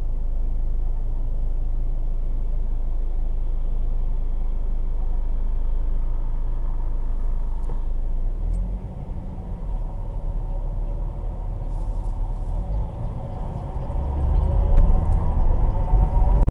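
2010 Ford Focus 1.8 running steadily at first, then moving off, with a whine that builds from about two thirds of the way in and rises in pitch and loudness as speed increases. The owner traces the whine to the gearbox: it is absent at standstill and grows louder with road speed.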